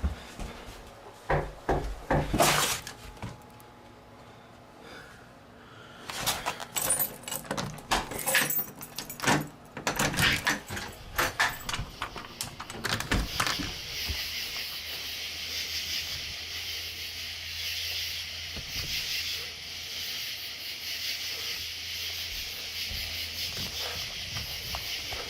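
Repeated knocking and banging on a door in uneven bursts, then a steady hiss sets in about halfway through and carries on.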